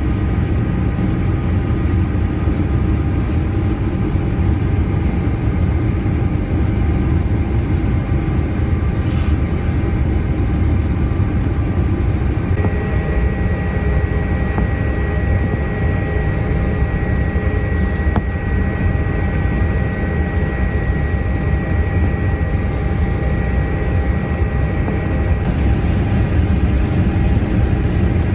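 Steady cabin noise inside a Boeing 787-8 airliner: a constant low rumble from the engines and airflow. A faint steady high whine joins it about halfway through and stops a few seconds before the end.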